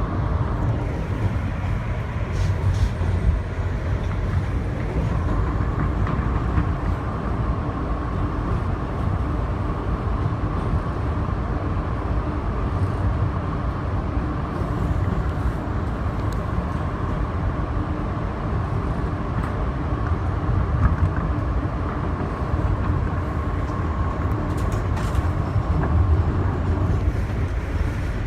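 Subway train running at speed, heard from inside the car: a steady low rumble of wheels on rail with a steady whine over it. The whine comes in about five seconds in and fades near the end.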